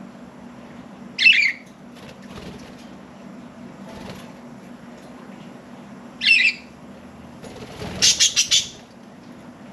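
Budgerigars giving short, sharp chirps: one about a second in, another around six seconds, then a quick run of four near the end, with wing flaps as the birds fly.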